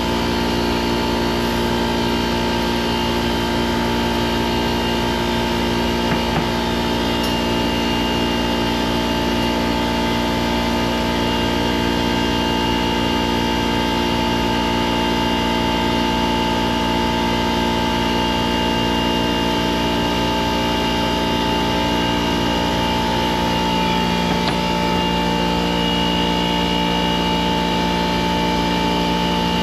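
Troy-Bilt pressure washer's small gasoline engine running at a steady speed. The pump is not building pressure, and water is spraying out from a leak inside the unit.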